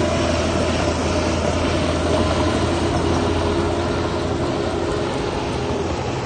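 Diesel engine of heavy earthmoving machinery running steadily, with a low drone under it.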